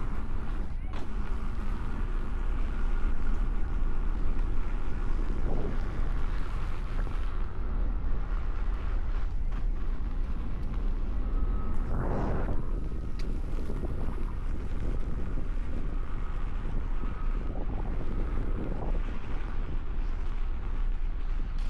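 Wind buffeting the microphone over the steady low rumble of a Nosfet Apex electric unicycle rolling along a dirt trail. A brief louder swell of noise comes about twelve seconds in.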